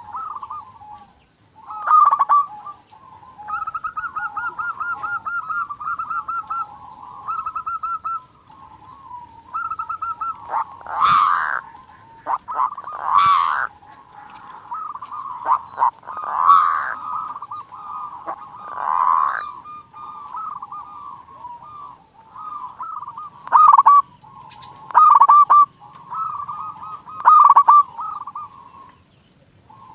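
Zebra dove (perkutut) song: rolling, trilled coos held around one pitch, repeated in phrases. Louder, sharper calls break in every couple of seconds in the second half.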